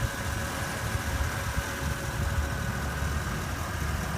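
A Porsche Cayenne GTS's 4.8-litre V8 idling steadily, a low, even engine sound.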